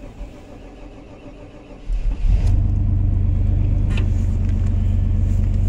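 A 1995 Chevrolet G20 van's 5.7-litre V8 cold-starting: it fires and catches about two seconds in, then runs at a steady idle.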